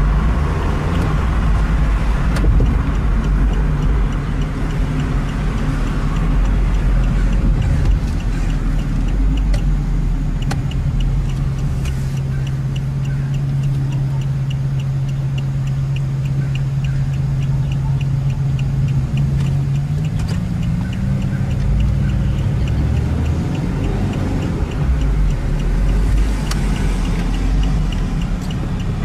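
Car engine and road noise heard from inside a car's cabin in slow traffic: a steady low engine drone whose tone holds for several seconds, then steps up in pitch about two-thirds of the way through. A fast, regular ticking runs through the middle stretch.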